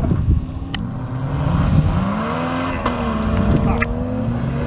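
Off-road 4x4's engine revving under load, its pitch rising about two seconds in and then holding high, with a couple of sharp clicks.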